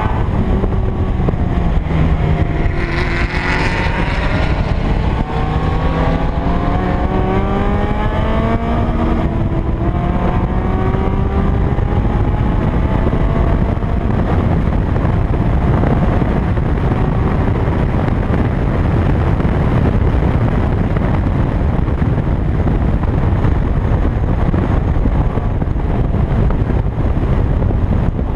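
A 2000 Toyota MR2 Spyder's stock 1ZZ four-cylinder engine running under load on track, its pitch climbing in long rises through roughly the first ten seconds. After that the engine is fainter under a steady rush of wind and road noise on the outside-mounted camera.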